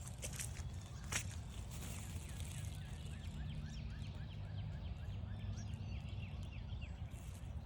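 A chorus of frogs calling: many short, rapid calls overlapping for several seconds. A single footstep sounds about a second in.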